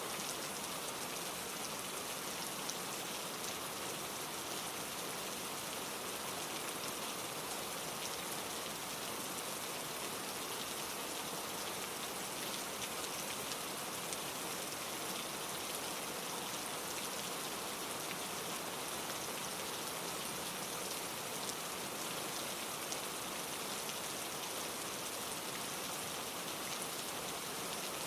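Steady rain falling on leaves: an even, dense patter of small drops that does not change.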